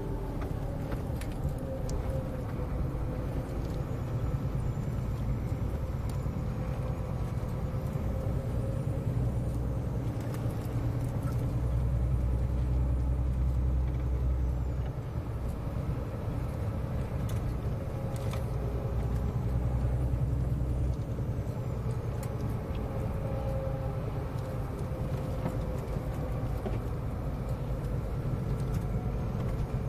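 Scania 143M 470 truck's V8 diesel engine running with a steady low rumble that swells louder twice, about twelve and eighteen seconds in.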